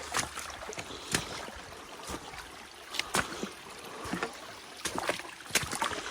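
Boots stepping through a shallow, rocky creek: irregular splashes and knocks on stone about once a second, over the steady hiss of running water.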